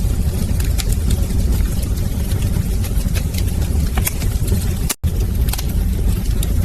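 Wood fire crackling in a fireplace: a steady low rumble of flames with scattered sharp pops and snaps. The sound cuts out for a split second about five seconds in.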